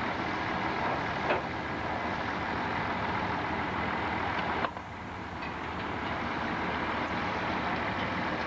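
Sawmill machinery running steadily with a heavy engine hum. There is a sharp knock about a second in, and about halfway through the sound drops off suddenly, then gradually builds back up.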